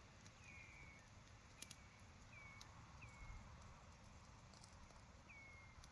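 Near silence with a bird calling faintly in the distance: about six short whistled notes, each sliding down in pitch, spaced irregularly.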